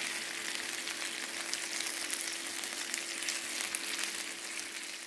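Honey-marinated chicken wings sizzling and crackling steadily in hot oil in a frying pan, with many small pops.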